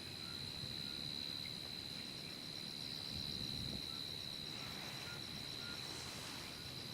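Outdoor ambience of insects: one high, steady drone holds throughout. A faint, evenly pulsing chirp joins it for a few seconds in the middle, with a few short high call notes scattered over a low background rush.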